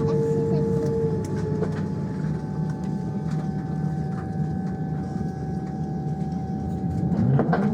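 Boeing 787-9 Dreamliner cabin noise: a steady low rumble with a thin held whine. Near the end a rising whine begins.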